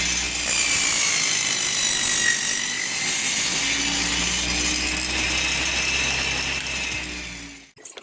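Homemade table saw running and sawing wood, a steady motor whine with its pitch wavering slightly under the load of the cut. The sound stops abruptly near the end.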